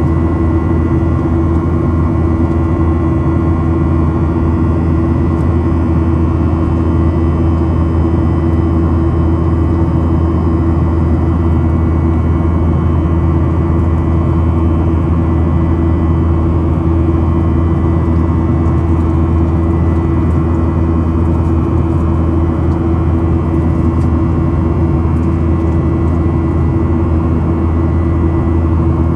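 Boeing 737-800's CFM56 jet engines and airflow making a steady, loud drone with several unchanging tones over a rushing noise.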